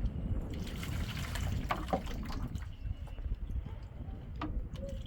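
Water trickling and dripping, with a few light clicks and knocks.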